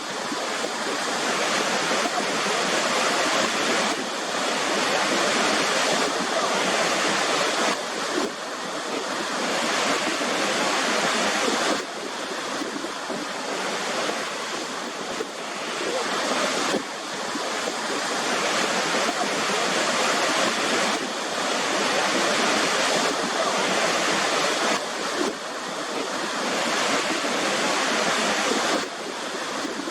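Waterfall: a steady rush of falling water, with a few sudden dips in level that build back up.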